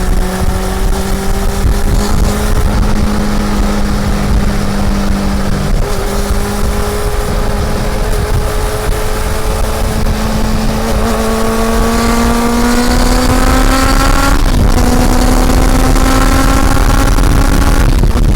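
Honda CB400 Super Four's inline-four engine under way on the road, its pitch climbing slowly as the bike gathers speed, with a brief break about fourteen seconds in, as at a gear change, before it holds steady again. A heavy low rumble of wind runs underneath.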